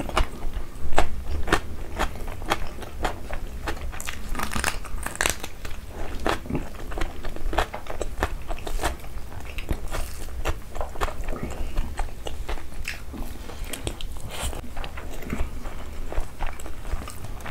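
Close-miked eating sounds: wet chewing and lip smacks from mouthfuls of rice and chicken liver curry eaten by hand, with many short crunches and clicks.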